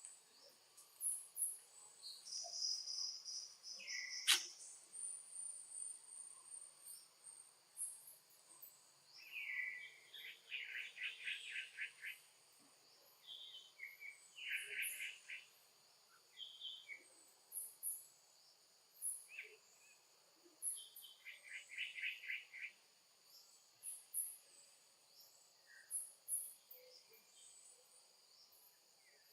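Insects chirping and droning: high chirps repeat throughout over a steady drone, with several short rapid trills in between and one sharp click about four seconds in.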